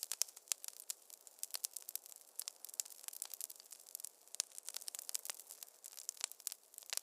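Wood fire crackling in a fireplace: dense, irregular sharp pops and snaps, several a second, over a faint hiss.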